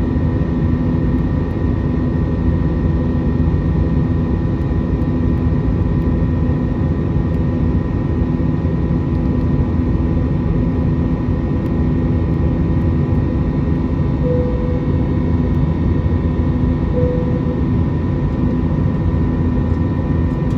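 Steady jet engine and airflow noise heard inside the cabin of an Airbus A321 airliner, with a constant hum. Two short beeps come about three seconds apart in the second half.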